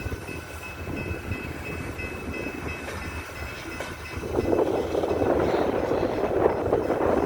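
Coal train rolling along the tracks, a steady rumble that grows clearly louder about four seconds in, with faint thin high tones early on.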